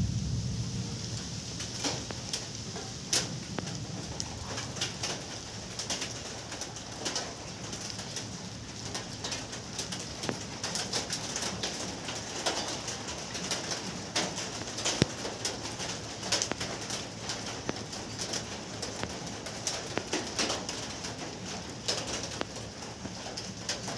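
Steady rain with many sharp drips and patters, and a pigeon cooing now and then. A low thunder rumble dies away in the first second or two.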